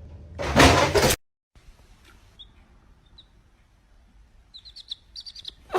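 A loud rushing burst lasting under a second, then, after a sudden cut, faint high bird-like chirps, with a quick run of short repeated chirps near the end.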